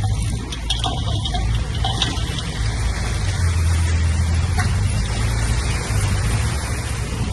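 Diesel engine of heavy earthmoving machinery running steadily with a deep drone, with a few light clanks in the first couple of seconds.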